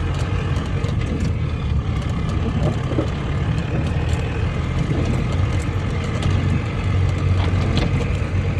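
Off-road vehicle driving along a forest trail: a steady low engine and road rumble, with scattered light knocks and rattles.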